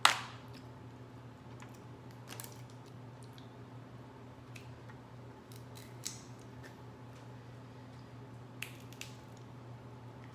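Crab leg shell being cracked and snapped open by hand: one loud sharp crack at the start, then a few fainter clicks and snaps of shell over the next several seconds, over a steady low electrical hum.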